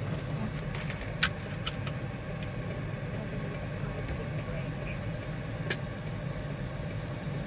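Semi-truck engine idling with a steady low hum, heard from inside the cab, with a few sharp clicks about a second in, again shortly after, and once more near the end.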